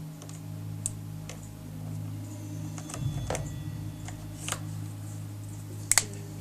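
A low, steady drone from a TV drama's background score, with a handful of scattered sharp clicks and taps. The loudest click comes near the end.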